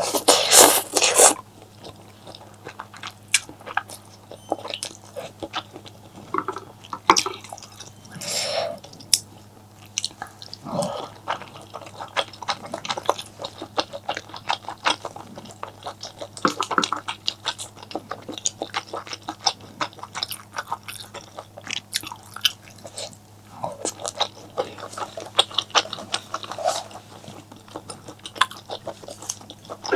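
Close-miked eating: chewing and biting, with many wet smacks and clicks of the mouth. The loudest, noisiest burst of mouth sound comes in the first second or so.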